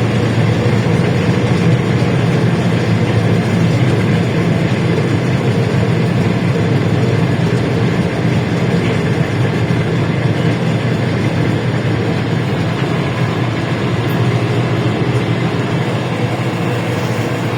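LiAZ-677M bus's ZIL V8 petrol engine running steadily while the bus is under way, mixed with road and body noise as heard from inside the cabin.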